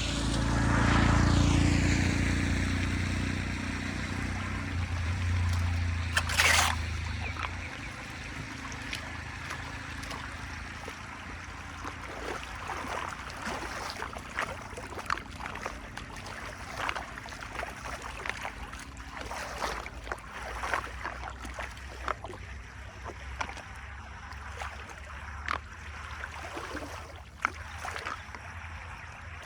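Draining water gurgling and trickling. It rushes loudly for the first several seconds, with one sharp splash or knock at about six seconds, then settles into quieter trickling broken by many small splashes.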